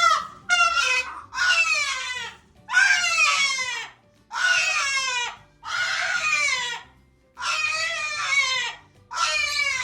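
A parrot screeching: a run of about eight loud calls, each close to a second long and sliding down in pitch, repeated every second or so.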